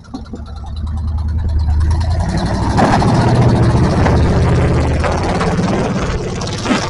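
Off-road 4x4's engine revving hard under load on a hill climb, building over the first couple of seconds, with a rush of noise joining in about halfway through before easing off slightly near the end.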